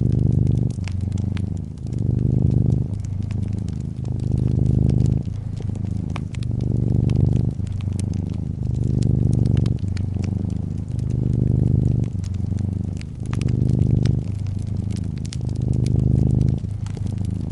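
Brown tabby cat purring, a low pulse swelling and fading about every two seconds, over the light crackle of a fireplace.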